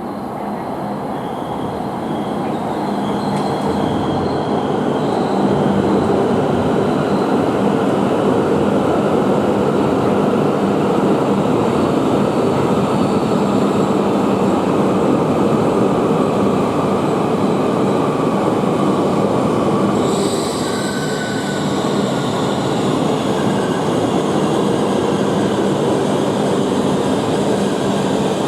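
A ten-car Tohoku Shinkansen train running into the platform as it arrives: a loud, steady rush of wheels and air that builds over the first few seconds, with faint high squealing tones early on. About two-thirds of the way through, the sound dips briefly and a higher hiss comes in.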